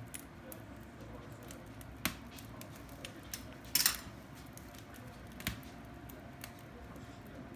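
Wood fire burning in a fireplace, with a low steady rush and a few sharp crackling pops, the loudest a quick double pop near the middle.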